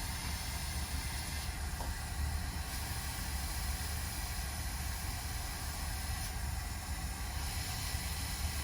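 Steady hiss with a low hum beneath it, unchanging throughout; a constant background noise with no distinct events.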